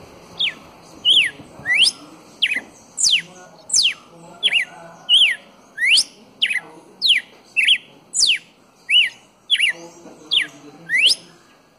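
Red-cowled cardinal calling: a steady series of short, sharp whistled notes, about one and a half a second, some sweeping sharply up in pitch and others dropping.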